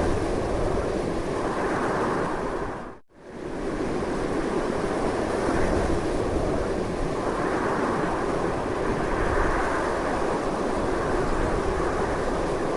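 Strong, continuous wind blowing, a steady rushing noise with slow swells. About three seconds in it fades out almost to silence for a moment and comes straight back.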